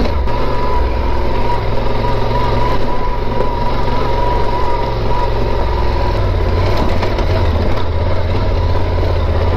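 Yamaha Super Ténéré 1200's parallel-twin engine running steadily at low speed on a rough trail, with no big revs or gear changes.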